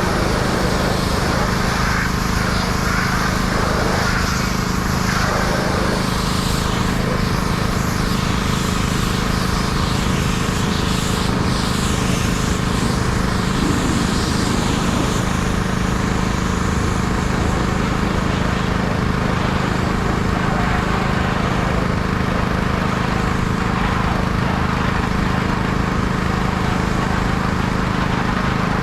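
Pressure washer running steadily, its small engine holding a constant hum while the water jet hisses and varies in strength as the spray moves over the truck.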